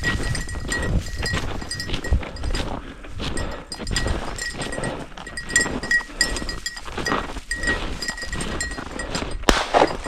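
Heavy breathing and trudging steps through snow, with a small dog bell tinkling on and off.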